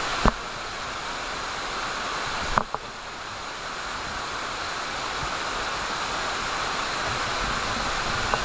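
Steady rushing of a monsoon waterfall, with two brief knocks, one just after the start and one about two and a half seconds in.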